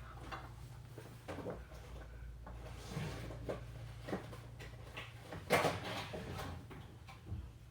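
Household handling sounds of someone fetching food in a kitchen: scattered light knocks and clatter, the loudest a little past halfway, over a steady low hum.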